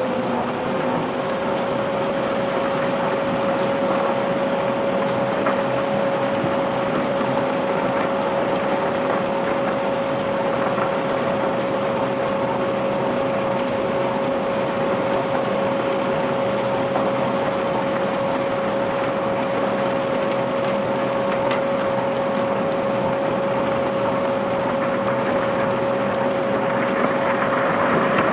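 Ship's conveyor-belt unloading machinery running steadily: a constant mechanical noise with a steady whine that rises slightly in pitch in the first second, then holds.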